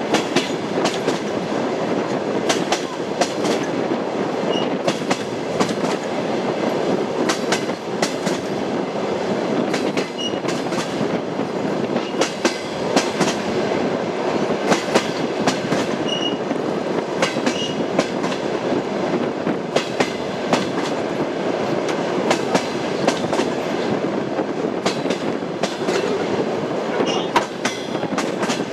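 Railway carriage on the move: its wheels clatter over rail joints with many quick knocks over a steady rumble, with a few brief high squeaks here and there.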